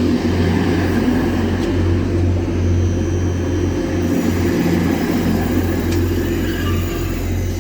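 Grand Central Class 180 diesel multiple unit's underfloor Cummins diesel engines running steadily with a deep, even hum.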